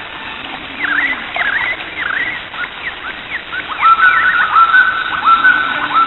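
Birds calling over the steady rush of a spillway waterfall. Short chirps come through the first few seconds. From about two-thirds of the way in, a quick series of louder whistled calls rises and then holds one pitch.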